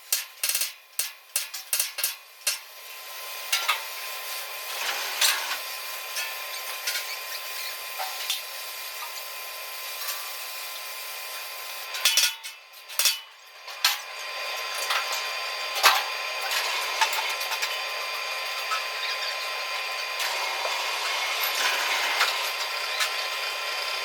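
Metalworking noise from steel truck-bed fabrication. A quick run of sharp knocks comes at the start and again about twelve seconds in. In between is a steady hissing tool noise with scattered crackles.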